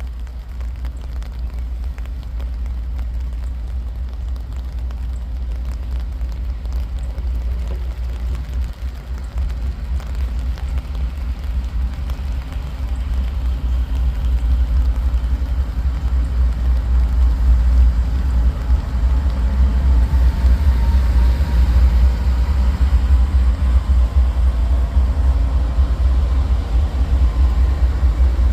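Diesel freight locomotive approaching, a low engine rumble growing steadily louder, with a faint whine coming in about two-thirds of the way through.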